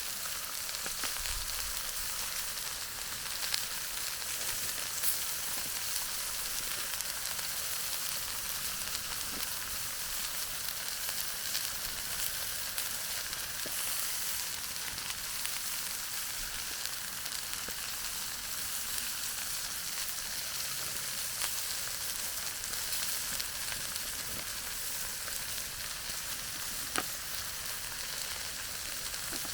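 Chicken frying in a pan over a campfire: a steady sizzle with a few sharp pops.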